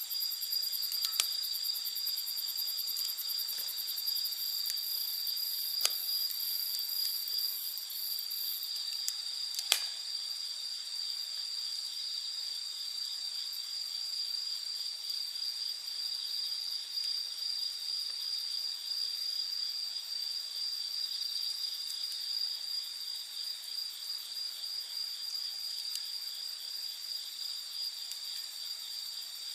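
Night insects trilling steadily in a high, continuous chorus, with a wood campfire giving a few sharp pops and crackles, the loudest about 6 and 10 seconds in.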